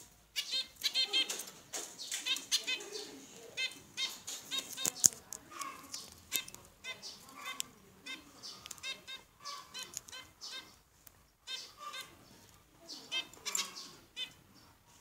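Small birds chirping in quick runs of short, high notes, again and again, with brief clicks and rustles among them; one click about five seconds in is the loudest.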